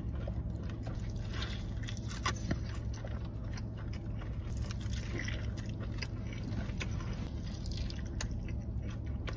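A person chewing and biting food close to the microphone, with irregular crisp crackles from the bites over a steady low hum.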